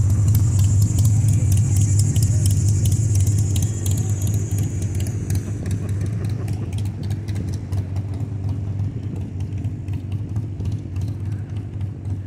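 A motor vehicle running close by: a loud, steady low hum with a high hiss that fades after about four seconds. A run of light clicks and jangling, like keys, continues throughout.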